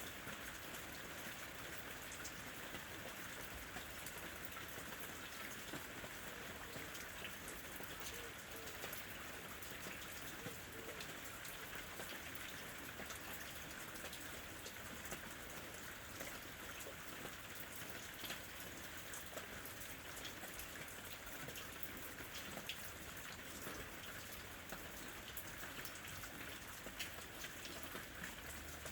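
Steady rain with individual drops pattering on a surface, an even hiss dotted with small ticks.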